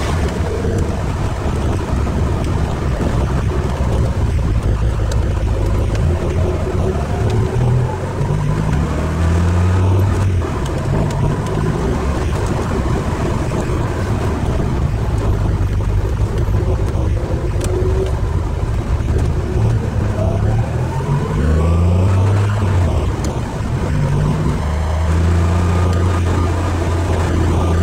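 Ferrari 308 GTSi's V8 engine heard from inside the cabin, driving steadily over road noise. Its pitch climbs twice as the car accelerates: about a quarter of the way in, and again past two-thirds.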